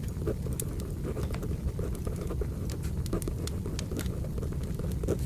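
Wood fire crackling: a steady low rumble of burning logs with frequent small sharp pops and snaps at irregular intervals. Pencil writing on paper is layered over it.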